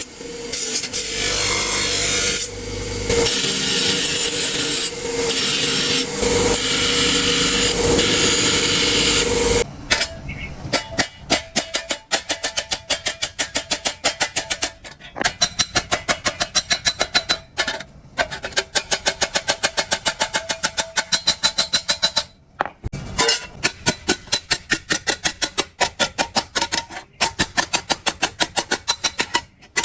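A power tool runs with a steady whine and hiss for about ten seconds, then stops abruptly. It is followed by rapid, rhythmic hand strokes of scraping or filing, about five a second, broken by short pauses.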